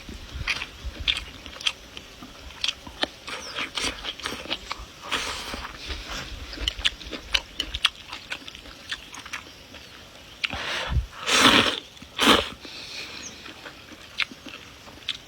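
Close-miked eating of noodles, fried eggs and flowering cabbage stalks: chewing with many small wet mouth clicks and crunches. About eleven seconds in come two louder, longer noisy bursts.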